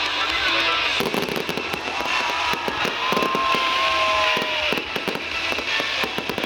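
Fireworks going off: many rapid pops and crackles, thickening about a second in, with music playing alongside.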